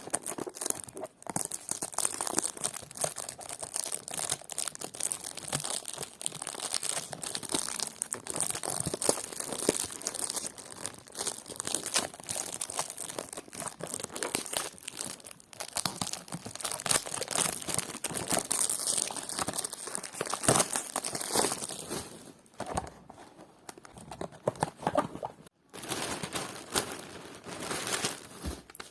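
Dense, continuous crinkling and crackling, as of material being handled or crushed, with short breaks about a second in and a few seconds before the end.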